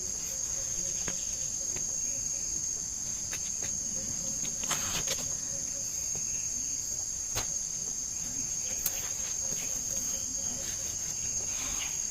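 Steady high-pitched chorus of insects, continuous throughout, with a few faint clicks and rustles now and then.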